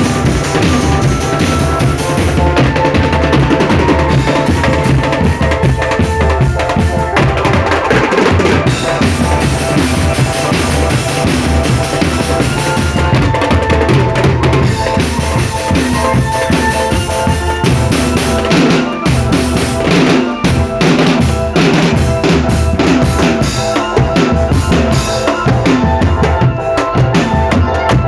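Marching drum band playing: bass drums and snare drums beating continuously, with a sustained melody line over them.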